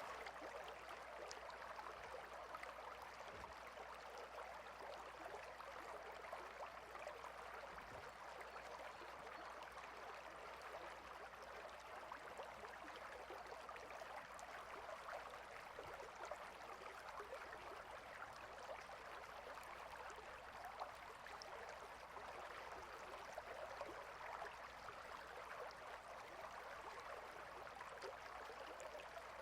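A small water stream flowing steadily, a faint, even rush of running water.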